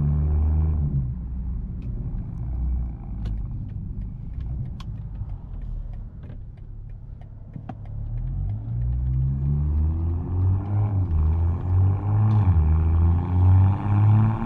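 BMW M240i xDrive's B58 turbocharged 3.0-litre inline-six heard from its exhaust. The engine note falls away at the start and runs quietly for several seconds with scattered sharp clicks. From about eight seconds in the car accelerates, its pitch rising and dropping back at each upshift and growing louder.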